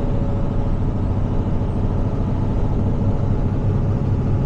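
Heavy tow truck's engine running steadily at cruise with road noise, heard from inside the cab.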